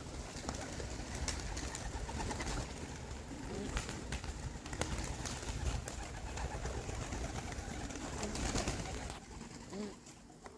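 Domestic racing pigeons cooing softly now and then, over a steady low rumble, with a few sharp clicks.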